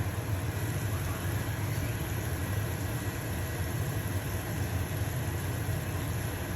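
Stove-top range hood fan running with a steady low hum, over the even hiss of a pancake sizzling in a frying pan.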